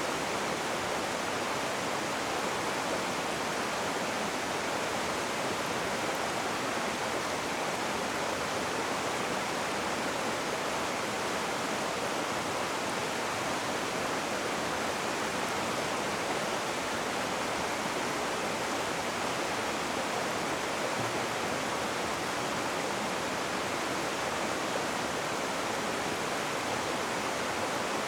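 Rushing river water: a steady, even hiss of fast-flowing water with no change or pauses.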